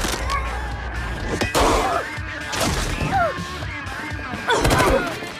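Action-film fight soundtrack: a music score with hard impact hits and crashes landing about a second and a half in, two and a half seconds in, and near the end.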